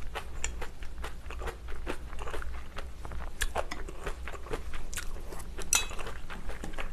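Close-miked chewing of crisp kimchi, a rapid, irregular run of short wet crunches.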